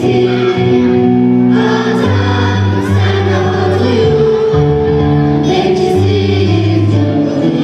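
A choir singing with instrumental accompaniment, in long held notes over a steady bass line.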